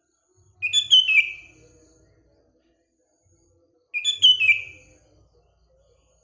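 Sooty-headed bulbul singing: two short, bubbly song phrases about three seconds apart, each lasting about a second, with notes stepping downward in pitch.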